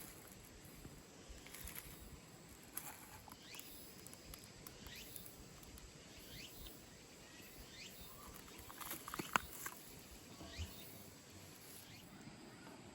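Faint scattered light taps and rustles, with a sharper click about nine seconds in.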